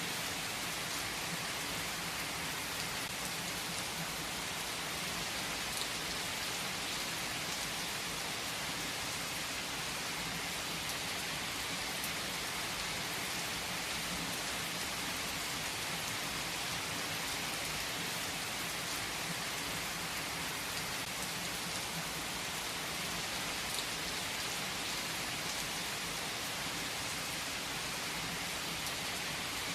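Steady, even downpour of rain on surfaces, with now and then a single sharper drop tick.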